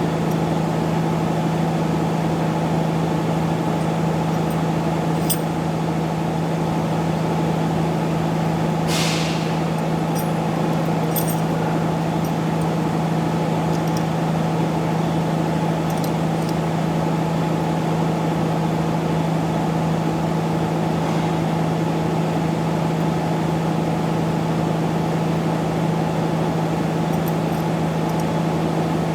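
An engine running steadily with a constant hum. A short hiss comes about nine seconds in.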